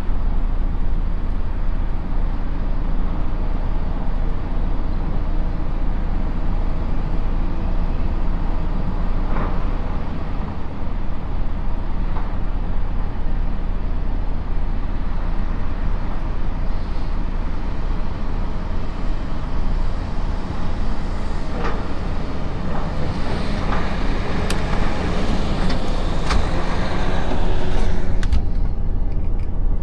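Truck engine and road noise, a steady low rumble. Several sharp knocks and clanks come in over the last several seconds.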